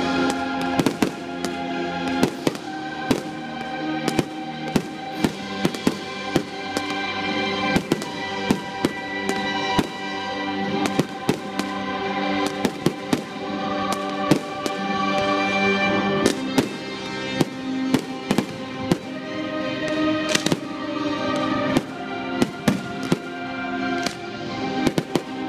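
Fireworks display: a rapid, irregular run of sharp bangs from aerial shells bursting, often one to three a second, heard over steady music with held notes.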